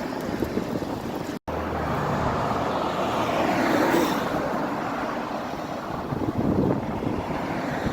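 Road traffic noise: a car passing, swelling to its loudest about four seconds in. The audio cuts out for a moment about a second and a half in.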